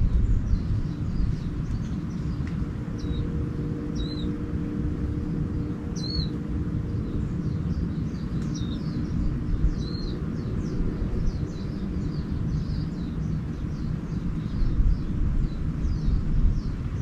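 Small songbirds chirping and twittering in quick, repeated short notes, some with a hooked up-and-down call, over a steady low rumble with a faint hum.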